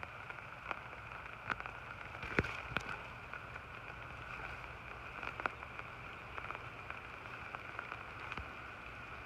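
Hard rain approaching across a pond: a steady distant hiss, with scattered sharp ticks throughout.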